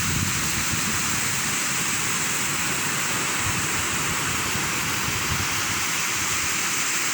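Steady rush of water falling and running below a bridge, a constant hiss with a low uneven rumble underneath.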